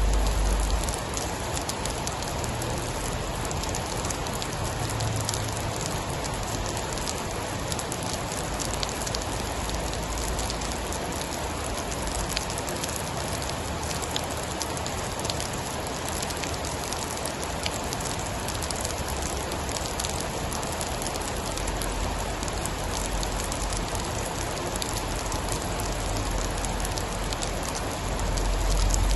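Steady heavy rain falling on a surface, with many small drop ticks through the hiss. A low rumble is heard briefly at the start and swells again near the end.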